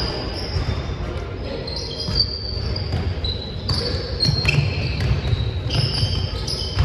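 Dodgeball game in a large gym hall: rubber balls thudding and bouncing on the floor at irregular moments, with many short high squeaks scattered throughout and voices in the background.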